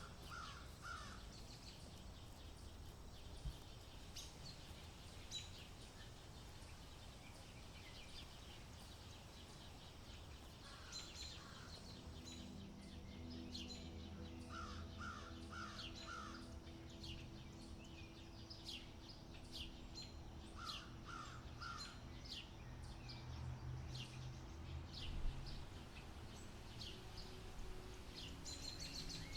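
Faint outdoor bird calls: one bird calls in short series of three or four harsh notes, four times, over many quick high chirps from small birds. A low steady hum comes in about halfway.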